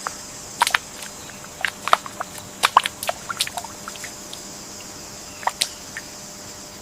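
Wetland ambience: scattered water drips and small plops, most of them in the first three and a half seconds and a couple more near the end, over a steady high insect drone.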